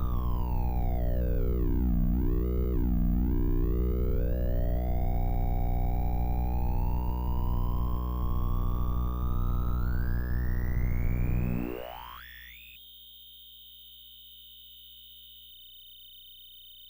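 Polytik synth playing a buzzy pitched tone over a pulsing low drone. The pitch falls, dips twice, then climbs slowly before sweeping sharply up near the end into a quieter, steady high tone.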